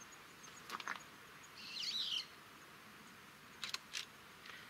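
A bird chirps once briefly, about two seconds in, with a short twisting call. Pairs of short sharp ticks come just before one second and near the end, over a faint outdoor hiss.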